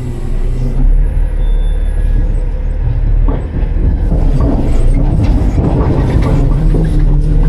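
Autocar-Heil Freedom front-load garbage truck working: its diesel engine runs under hydraulic load while metal clatters and scrapes, louder in the second half. The engine pitch starts to rise near the end.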